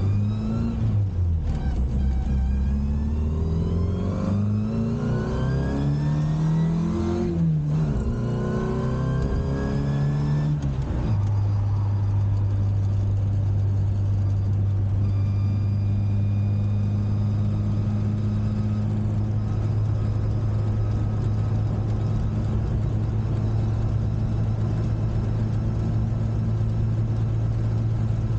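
Classic Mini's A-series four-cylinder engine through its Maniflow exhaust, revved up and let fall three times, then settling to a steady idle about eleven seconds in.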